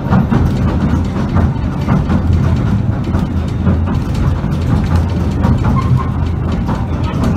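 Southend Pier Railway train running along the pier, heard from inside the carriage: a steady low rumble with rattling and frequent clicks from the wheels on the track.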